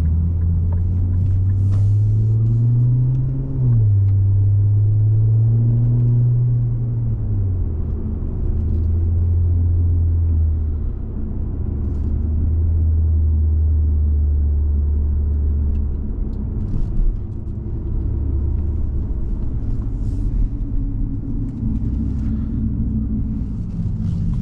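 2017 Infiniti Q60 Red Sport's twin-turbo 3.0-litre V6 through the Infiniti Performance exhaust, driving: the engine note rises under acceleration, drops sharply at an upshift about three and a half seconds in, and rises again. It then falls off and settles into a steady low drone while cruising.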